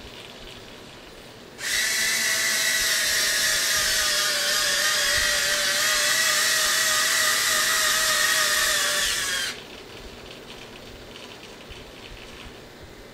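Small electric retract motors on a model P-51 Mustang's landing gear whirring steadily for about eight seconds, with a slightly wavering whine, starting and stopping abruptly as the gear cycles.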